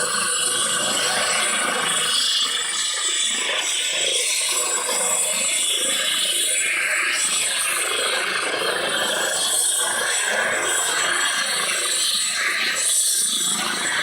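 Twin-turbine Eurocopter EC135 helicopter running on the ground: a steady, loud rushing hiss with a thin high whine.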